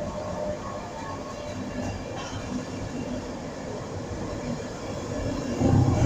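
Virgin East Coast InterCity 225 departing, its coaches rolling past on the rails, getting louder near the end as the Class 91 electric locomotive at the rear draws level.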